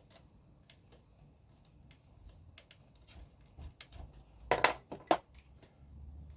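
Small hard parts and tools clicking and clattering as they are handled at a workbench, with a louder clatter about four and a half seconds in and another sharp knock just after five seconds.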